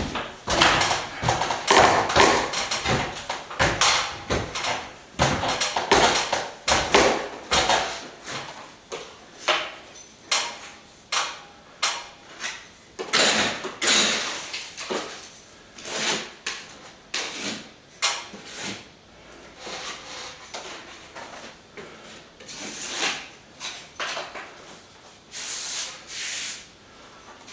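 Hand plastering tool scraping and rubbing over a plastered wall: a rapid, irregular run of short strokes, heavier in the first third and lighter and more spaced out later.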